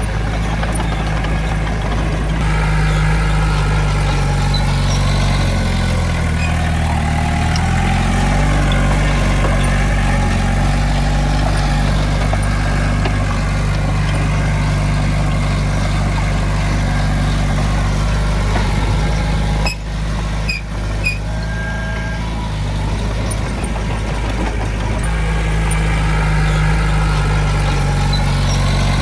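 Heavy-equipment diesel engine running under working load, its pitch rising and falling as it is throttled up and down. A few sharp clicks or knocks come about two-thirds of the way through.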